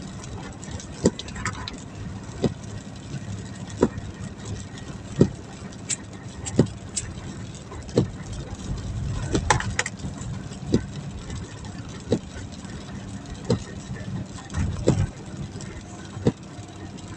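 Inside a moving hearse: steady engine and road hum, with a sharp click repeating evenly about every one and a half seconds.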